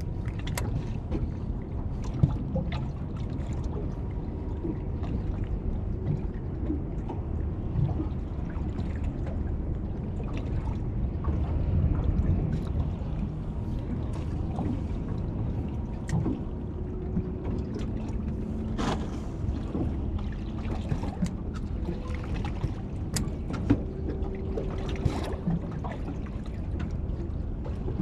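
Seawater washing and trickling among shore rocks, a steady low rushing, with a few light clicks and knocks scattered through it.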